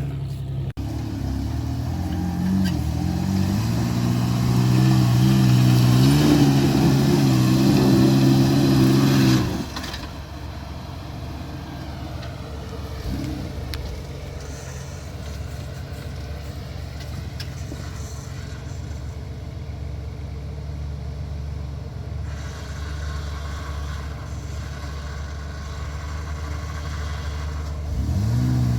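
Carburetted car engine running under throttle, its note rising in steps, then falling away suddenly about nine seconds in to a quieter, steady running note that picks up again near the end.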